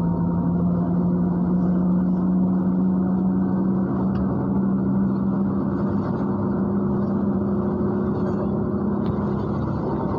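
MAZ-103 city bus running, heard from inside the passenger cabin: a steady engine and drivetrain drone. Its hum rises slightly in pitch over the first couple of seconds and then holds level.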